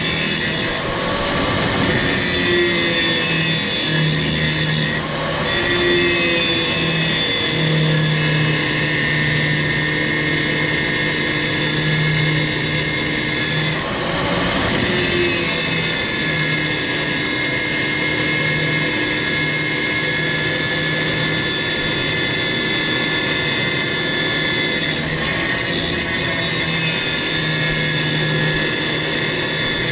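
Power grinder running under load as it grinds rivet heads flush on the truck's frame to remove the old leaf-spring hangers, with a steady pitch that sags briefly a few times as it bites.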